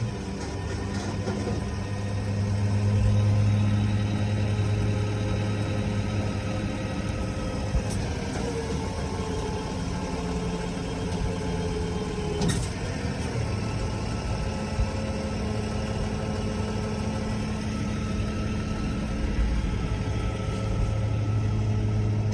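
Flatbed tow truck's engine running steadily while its hydraulics pull the bed back up. A fainter whine slides down in pitch around the middle and stops with a sharp click, with another click a few seconds earlier.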